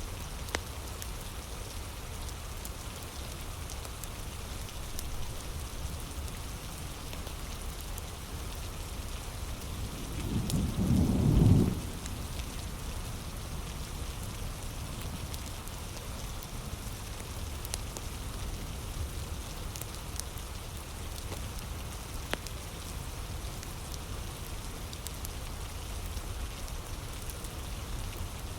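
Heavy rain falling steadily, with a short low rumble of thunder about ten seconds in that swells for a second or two and then cuts off.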